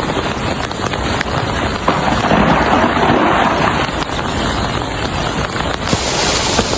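Steady rushing noise of wind and rain on the microphone during an ice storm, with a few faint clicks.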